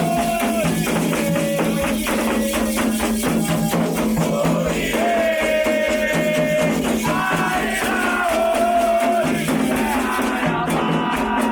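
A Candomblé chant (cantiga): a voice sings long held notes that slide between pitches, over a steady, fast beat of shaken rattles and percussion.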